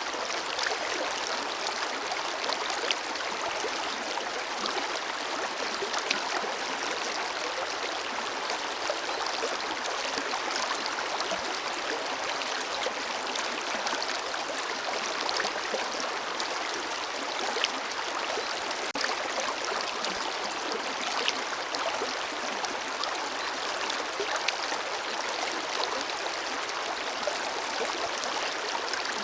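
Forest river flowing steadily over rocks, with a constant rush of water and small splashes scattered through it.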